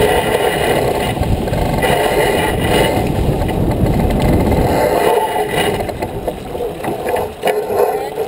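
Wind buffeting the microphone on a J24 sailboat, with water rushing past the hull: a loud, rough rumbling rush that eases off about five seconds in.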